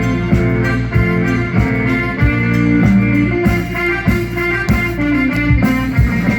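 Instrumental backing music with a steady drum beat and sustained held chords, with no singing: the instrumental stretch of a Taiwanese pop song's accompaniment track.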